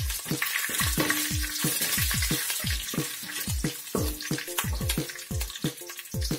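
Green chillies and coconut pieces sizzling in hot coconut oil as a wooden spatula stirs them around a wide aluminium pan; the sizzle is loudest in the first few seconds. Background music with a steady beat runs underneath.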